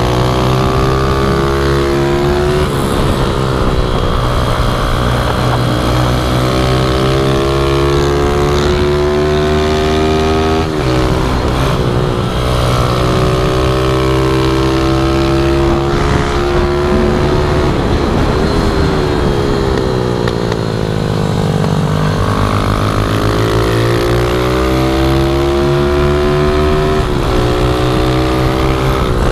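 Small pit bike engines revving hard in a race, pitch climbing and dropping back again and again as they shift and throttle through corners, over a steady low engine hum.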